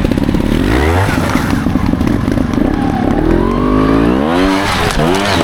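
Trials motorcycle engine revving under throttle, its pitch climbing about a second in and again, longer, from about three seconds, then dropping off near the end.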